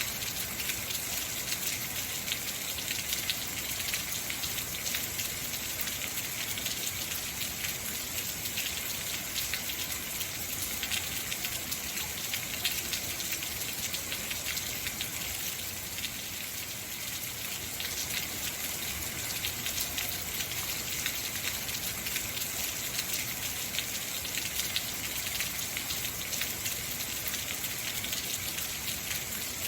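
Heavy rain falling steadily, a dense hiss of drops pattering on hard surfaces.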